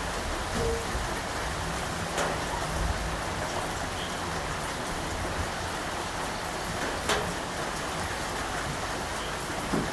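Steady rain falling, an even hiss with occasional louder single drops striking close by.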